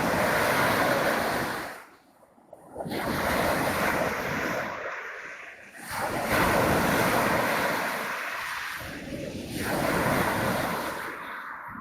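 Sea waves washing onto the shore in surges a few seconds apart, with brief lulls between them.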